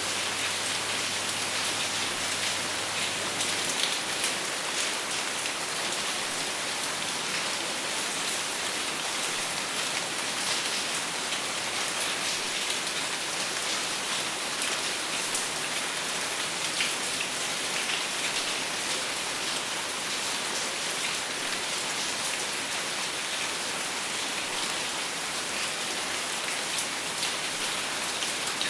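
Steady rain falling without thunder, a dense even hiss of drops hitting a surface.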